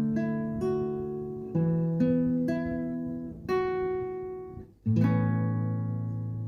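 Acoustic guitar music, chords plucked and left to ring, a new chord every second or so, the last one about five seconds in sustaining to the end.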